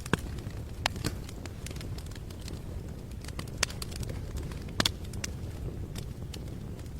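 Steady low background rumble with irregular sharp clicks and crackles scattered through it, the loudest about 5 seconds in.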